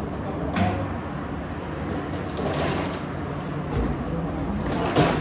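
Steady low hum of laundromat machines, with a few brief knocks and swishes of a washing machine's door and contents being handled, about half a second, two and a half and five seconds in.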